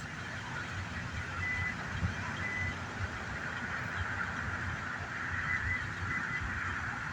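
Steady road traffic rumble, with a few short high-pitched tones about a second and a half, two and a half, and five and a half seconds in.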